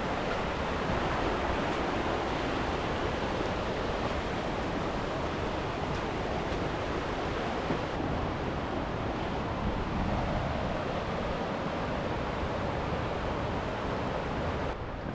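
Steady, even rushing of water, with no rhythm or tone; it drops off abruptly just before the end.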